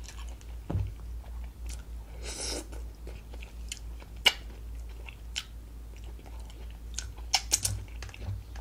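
A person chewing a mouthful of broccoli, with scattered sharp wet mouth clicks, several of them louder in the second half.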